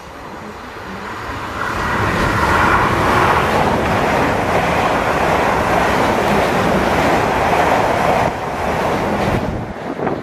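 Rush of a multiple-unit passenger train running through a station at speed without stopping. It builds over the first couple of seconds, stays loud and steady, then falls away in two steps near the end as the train clears the platform.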